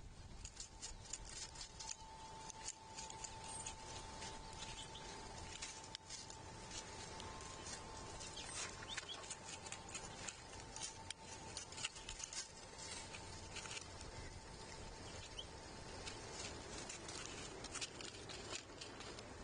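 Scattered quick clicks and taps of small animals feeding on a platform feeder, picking and pecking at seed.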